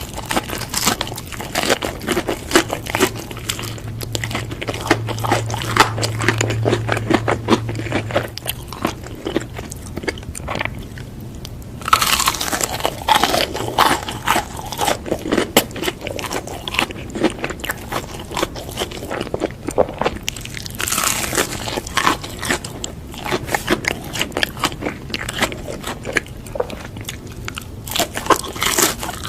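Close-miked eating sounds: a person biting and chewing burger and fries, with dense wet chewing clicks and louder crunchy bites about twelve and twenty-one seconds in.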